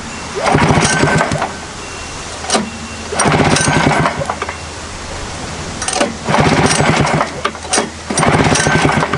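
1973 Rupp 440 two-stroke snowmobile engine cranked over four times on its pull starter, each pull a second-long run of quick pulses, with clicks between pulls. It turns over without firing because there is no spark at the plug, pointing to an ignition fault such as coils, stator, condensers or points gap.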